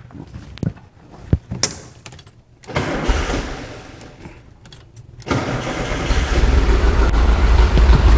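VW Beetle's 1900 cc air-cooled flat-four engine with twin 40 IDF carburettors cranking and starting on the first try after the distributor has been refitted. A few sharp clicks come first, then cranking, and about five seconds in the engine catches and runs steadily and loudly.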